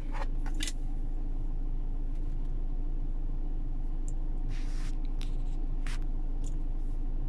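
Ford Everest engine idling steadily, heard from inside the cabin as an even low hum. A few faint clicks and a brief rustle come about four to six seconds in.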